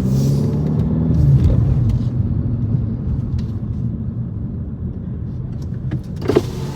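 Car engine and road rumble heard from inside a moving car, with a pitched engine note over the first second and a half settling into a steady low rumble. A brief sharp sound comes about six seconds in.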